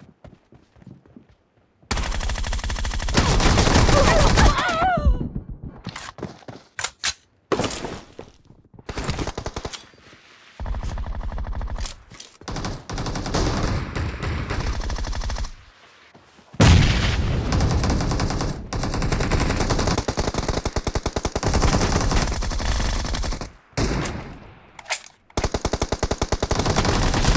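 Video-game automatic gunfire: long bursts of rapid machine-gun fire, with short pauses between them, after a brief quiet spell at the start.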